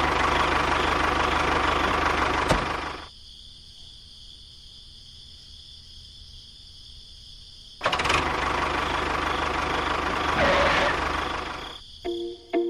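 A small engine runs for about three seconds, stops, then starts again about five seconds later and runs for about four more seconds before cutting off.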